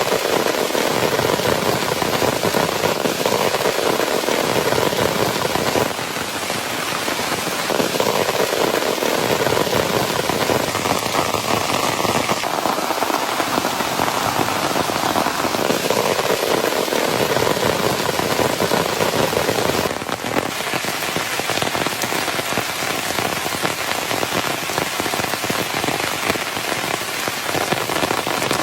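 Heavy rain falling steadily, a dense hiss of drops on surfaces, dropping slightly in loudness about six seconds and twenty seconds in.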